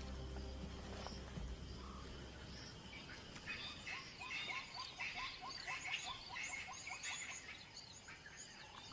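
Birds calling: a run of short rising notes repeated about three times a second, with higher chirps over them. A low rumble fades out in the first second or two.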